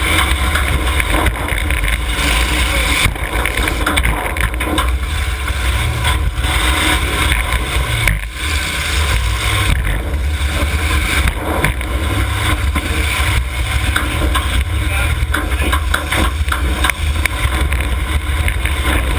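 Several demolition derby cars' engines running hard and revving together in a continuous loud rumble, with scattered knocks of cars ramming into each other.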